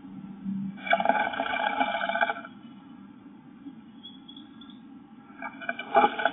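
A blue tit moving about inside a wooden nest box: two bouts of scrabbling as its claws and wings scratch against the wood, one about a second in and another near the end, over a faint steady low hum.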